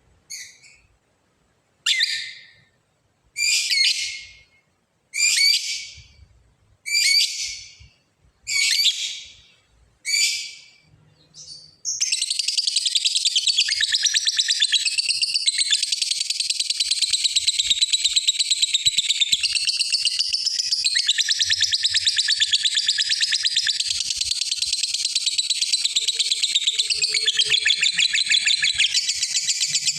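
Lovebird calling: seven short, sharp high calls spaced about a second and a half apart, then from about twelve seconds in an unbroken, rapid rattling chatter, the long 'ngekek' song that a lovebird uses to call out a rival.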